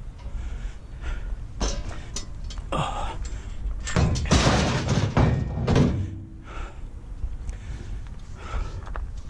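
A pickup truck's tailgate being shut: metallic clunks and rattling, loudest about four to six seconds in.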